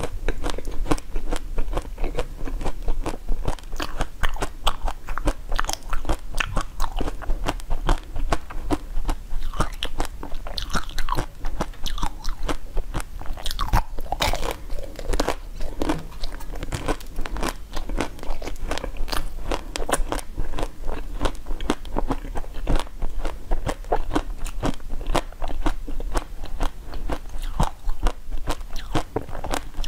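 Biting into and chewing pink-coated strawberry treats: repeated crisp crunches and chewing sounds.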